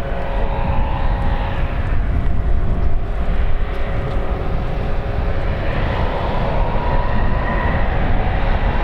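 Jet engines of an Airbus A321neo running loud: a steady rumble with a whine that rises slightly in pitch near the end.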